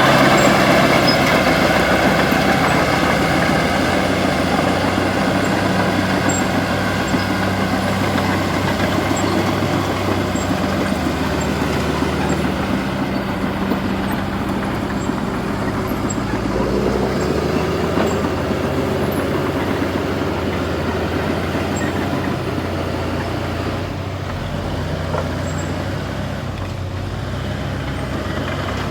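Heavy diesel logging equipment running steadily, its engine pitch shifting a few times as the load or throttle changes.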